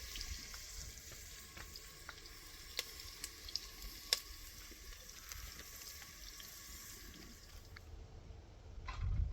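Food sizzling in a pan with a steady hiss and scattered pops and crackles. A low rumble comes in near the end.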